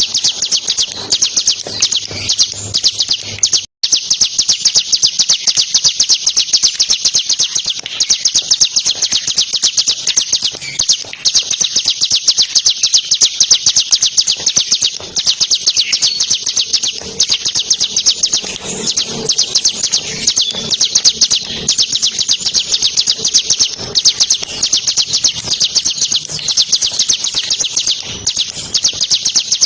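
Bar-winged prinia (ciblek) singing a continuous, very rapid, high-pitched trill of fast repeated notes, cutting out for an instant a little under four seconds in.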